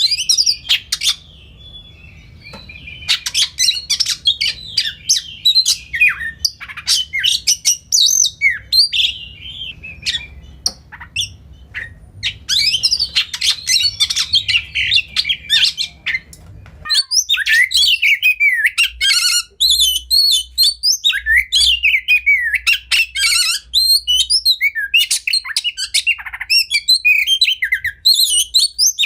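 Oriental magpie-robin (kacer) singing a fast, varied song of whistles, chirps and harsh notes. About two-thirds of the way through, a low background hum drops out suddenly as the recording changes, and the song carries on with many quick falling whistles.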